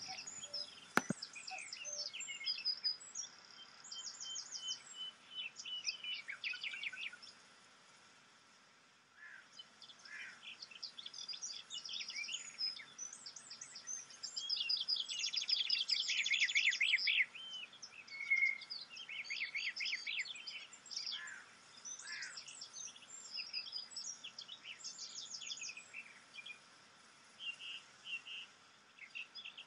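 Several birds chirping and trilling over one another, with a short lull about eight seconds in and the busiest calling around the middle. A faint steady high tone runs underneath.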